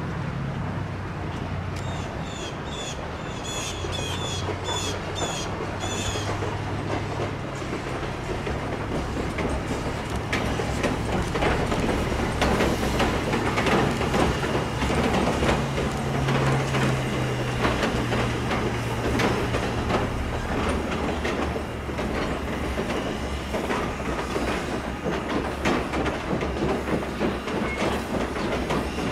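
Steam-hauled passenger train crossing a trestle, its wheels clicking over the rail joints with a steady low rumble, loudest through the middle. A bird chirps repeatedly a few seconds in.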